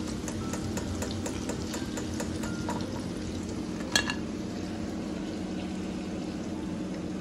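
Battered chicken pieces deep-frying in hot oil on medium heat: a steady sizzle with frequent small pops and crackles. A single sharp click comes about four seconds in.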